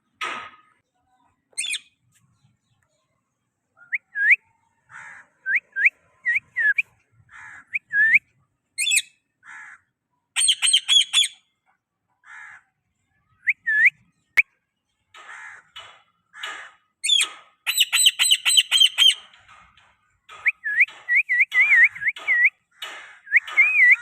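Pet parrot squawking and calling: a series of short calls that sweep sharply up in pitch, broken by quick trilled runs about ten seconds in and again a few seconds before the end.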